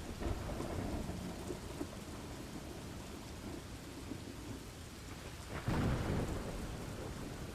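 Steady heavy rain with a low rumble of thunder running under it. The rumble swells louder for about half a second some six seconds in.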